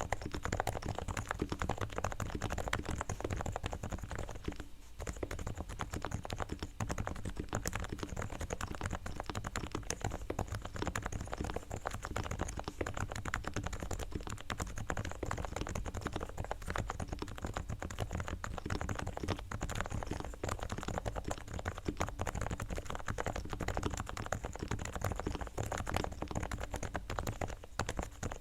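A Realforce R3 TKL silent 45g Topre keyboard is typed on continuously in a fast, dense stream of key strokes, with a short pause about five seconds in. This is the fully tuned board: Krytox-lubed sliders and springs, stabilizers straightened and lubed with XHT-BDZ, and Thinsulate dampening inside.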